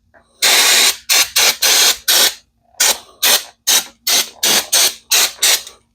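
Aerosol cleaner can spraying in a string of short hissing blasts: one longer blast, then about a dozen quick squirts at roughly two a second.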